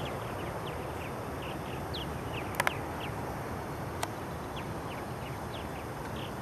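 Birds chirping in short, high, falling notes scattered through a steady background hiss. A quick double click sounds about two and a half seconds in, and a single click near four seconds.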